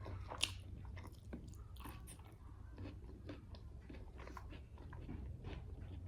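Close-up eating sounds: chewing and biting with small crunches and wet mouth clicks, the loudest about half a second in, over a low steady hum.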